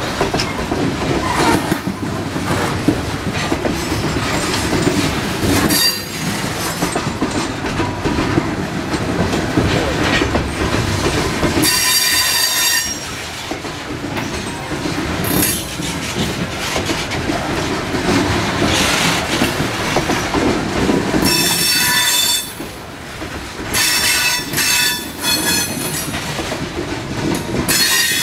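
Loaded coal hopper cars of a freight train rolling past close by, their wheels rumbling and clattering steadily over the rail. High-pitched wheel squeals rise over it several times: about twelve seconds in, again from about twenty-one to twenty-six seconds, and near the end.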